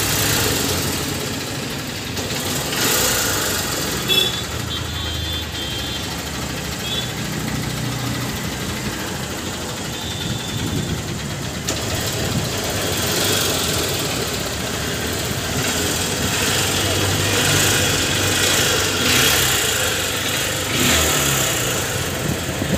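A motorcycle engine running steadily, with people talking nearby.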